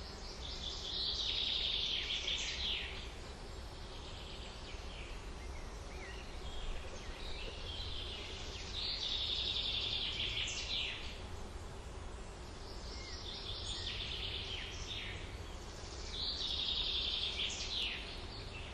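A songbird singing a repeated phrase of about two seconds, four times, each ending in a quick downward flourish, with a few short chirps between, over a steady low background rumble.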